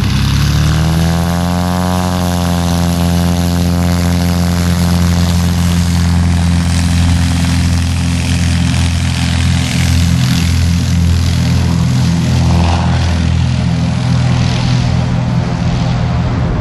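Tow plane's piston engine and propeller powering up, rising in pitch over the first two seconds, then running steadily at full power to tow the glider off for takeoff.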